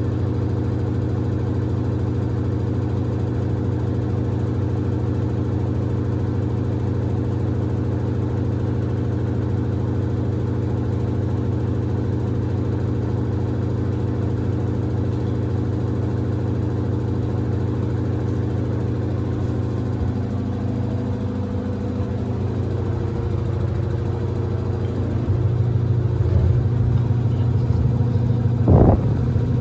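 Samsung front-loading washer-dryer running with shoes in the drum, its motor humming steadily. The hum shifts in pitch about two-thirds of the way in and then grows louder, with one sharp thud near the end. The machine's feet are not levelled, so it shakes as it runs.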